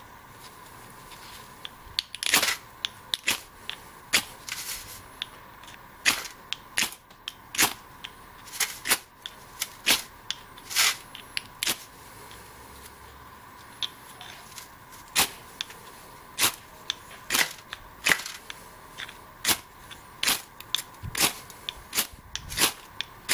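Ferrocerium rod scraped repeatedly with a steel striker: a string of short, sharp scrapes, about one or two a second, at an uneven pace.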